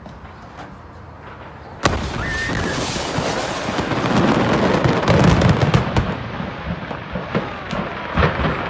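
A large stock of commercial fireworks exploding: scattered pops, then a sudden sharp blast a little under two seconds in, followed by a dense, continuous barrage of crackling and popping that builds in loudness.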